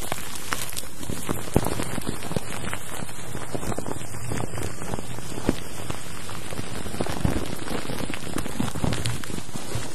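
Dense, steady patter of many small clicks and crackles over an even hiss, a rain-like noise.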